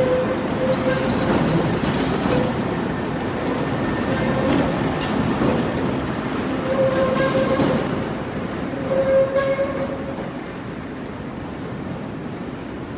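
CTA "L" train rolling through the Tower 18 interlocking: a steady rumble with clacking as the wheels cross the rail joints and switches, and wheel squeal that comes and goes several times on the curves, loudest about nine seconds in. The sound fades after about ten seconds as the train moves off.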